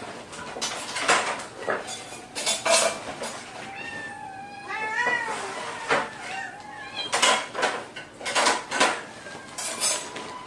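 A cat meowing a few times around the middle, amid repeated sharp clinks and clatters.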